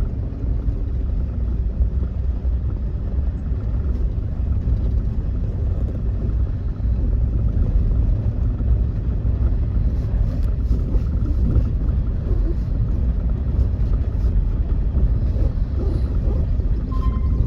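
A steady low rumble with no clear pitch, even in level throughout.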